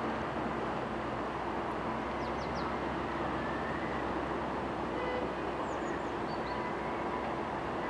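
ChME3 diesel shunting locomotive's engine running steadily, a dense drone with a few held tones. Faint short high chirps sound twice, once about two and a half seconds in and once near six seconds.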